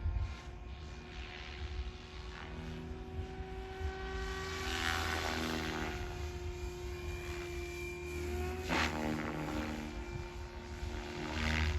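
SAB Goblin 500 electric RC helicopter in flight: a steady whine of motor and rotor whose pitch drifts as it manoeuvres. Three short louder rushes of blade noise come about 5, 9 and 11½ seconds in.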